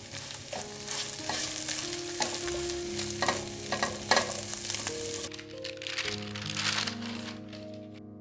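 Food sizzling in a hot frying pan, with sharper pops around three to four seconds in; the sizzle dies away shortly before the end.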